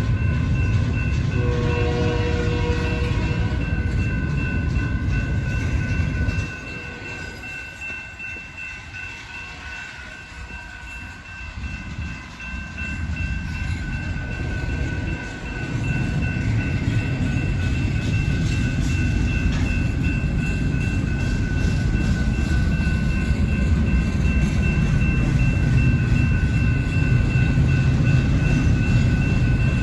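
BNSF intermodal freight train rolling past: heavy rumble with wheel clatter on the rails, and a short horn blast about two seconds in. The rumble drops off for several seconds in the middle, then builds back up and stays loud.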